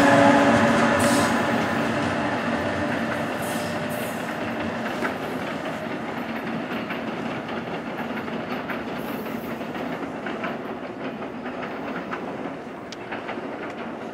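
NJ Transit train of multilevel coaches, with its locomotive at the rear, running past and receding. The wheels click over the rail joints while the sound steadily fades. A steady hum at the start dies away within the first couple of seconds.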